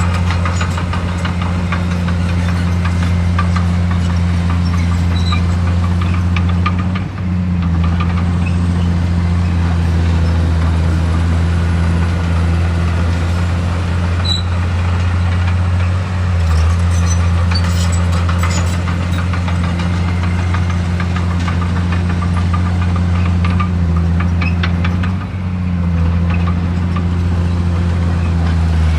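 Heavy earthmoving machine's engine running steadily under work, with its drone dipping briefly three times and scattered metallic clanks.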